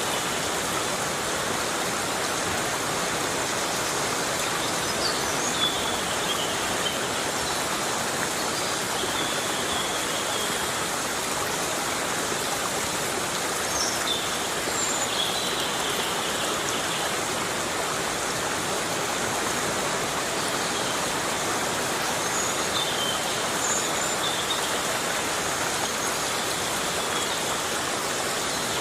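Heavy rain falling steadily in a forest: a dense, even hiss of rain on leaves and ground, with no let-up.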